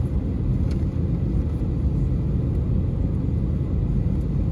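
Steady low rumble of cabin noise inside an Airbus A320neo (A320-251N) airliner before take-off.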